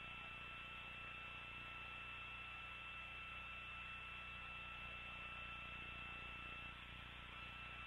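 Faint, steady hiss and hum of an open radio communications channel between calls, with two thin, steady high tones running under it.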